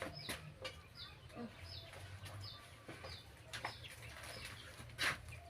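A bird's short, falling high chirp repeating about once a second, with scattered sharp knocks; the loudest knock comes near the end.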